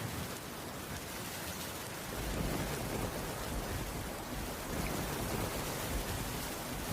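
Heavy rain falling on a cabin roof, a steady hiss, with a low rumble of thunder building about two seconds in.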